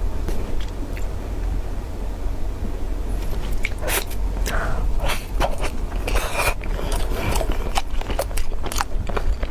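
Crunchy biting and chewing close to the microphone: quiet at first, then sharp crackling crunches come thick and fast from about three and a half seconds in, over a steady low hum.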